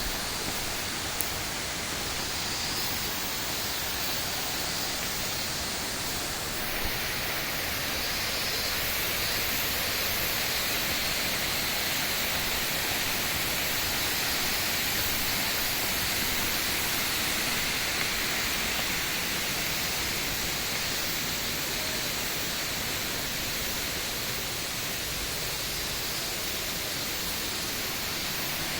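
Steady, unbroken rush of falling water from the Minoo Falls waterfall, with a slight change in its tone about six seconds in.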